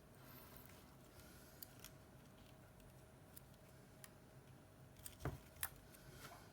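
Near silence with a few faint, small clicks and taps, as of tools and small phone parts being handled. Two sharper clicks come close together about five seconds in.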